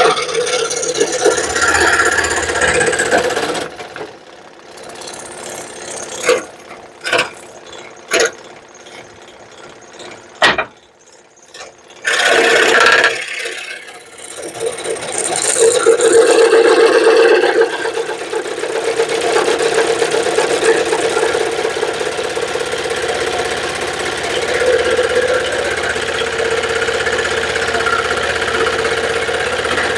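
Power saw running and cutting a heart shape out of a piece of wood, a steady rapid buzz. It drops away for several seconds with a few knocks, then starts up again about twelve seconds in and runs steadily.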